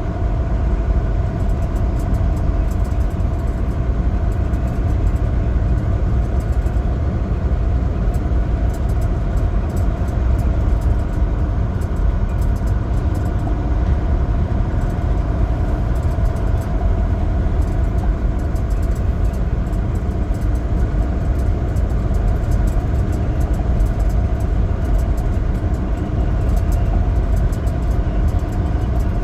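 Semi truck driving at a steady speed: a constant low rumble of engine and road noise.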